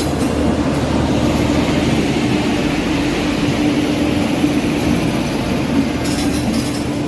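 Indian Railways electric locomotive and its coaches rolling slowly past along the platform as the train pulls into the station: a steady rumble of wheels on rail under a constant hum.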